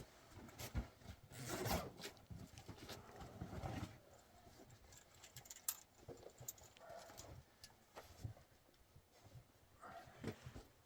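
Faint rustling and scattered light taps and knocks, as of clothing and small things being handled, a little busier in the first two seconds and again near the end.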